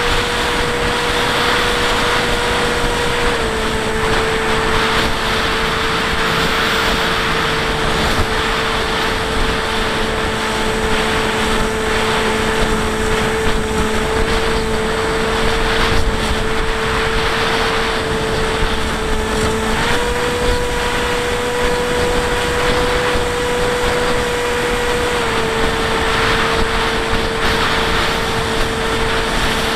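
Bixler 1.1 RC plane's electric pusher motor and propeller whining steadily in flight over rushing wind noise. The pitch steps down slightly about three seconds in, rises again around twenty seconds in and drops back about five seconds later with throttle changes.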